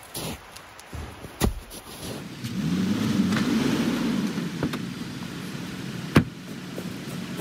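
Pickup truck engine pulling the truck slowly forward a short distance, the engine rising and easing off before settling to a steady idle. A few knocks come in the first two seconds and a single sharp click about six seconds in.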